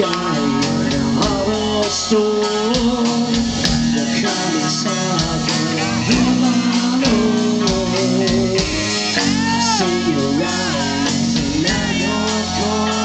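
Rock band playing a slow song live: drums and bass under a melody line that slides and bends in pitch.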